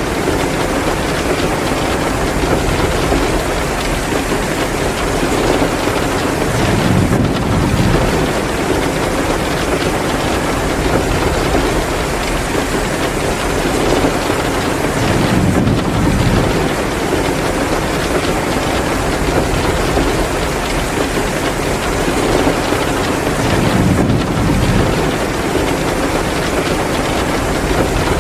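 Heavy rain pouring steadily, with a low rumbling swell about every eight seconds.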